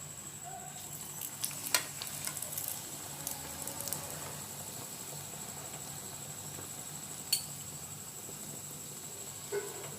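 Lachha paratha frying in a little oil on a hot tawa, sizzling steadily. A cluster of sharp metal clicks and scrapes from a ladle pressing it down comes between about one and four seconds in, and one more sharp click a little after seven seconds.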